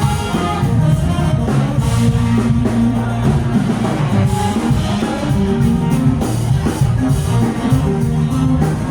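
Live rock band playing: drum kit, bass and electric guitar, loud and steady.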